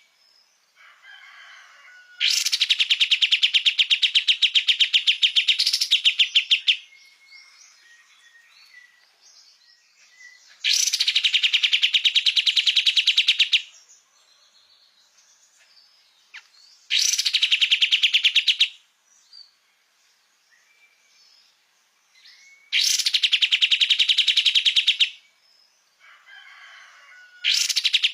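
Kapas tembak songbird singing in loud bursts of very rapid, evenly repeated notes, a rattling trill of two to four seconds each, five times over, with faint scattered chirps in the gaps between.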